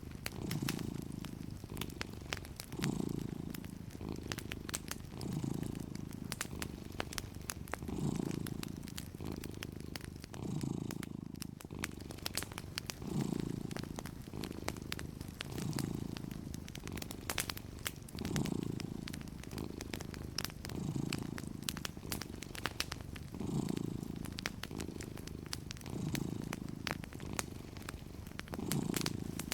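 Domestic cat purring steadily, swelling and easing with each breath about every two and a half seconds. Scattered small crackles of a wood fire run throughout.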